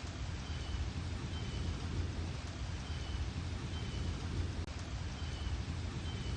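Steady rain during a thunderstorm, with a low rumble underneath. Faint short high chirps come through now and then.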